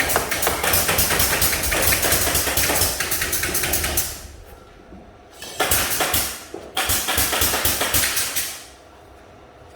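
Rapid hammering with fast repeated impacts in three bursts: a long one of about four seconds, then two shorter ones. It stops about a second before the end.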